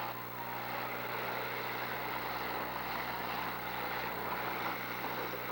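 Engines of the demolition derby cars running together as a steady mixed din, with no single crash standing out.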